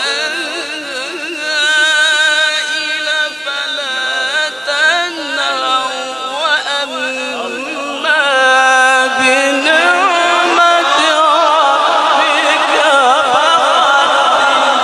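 A solo voice singing long, ornamented notes with a wide, wavering vibrato in a Middle Eastern style, holding phrases on a single long breath. It grows louder about halfway through.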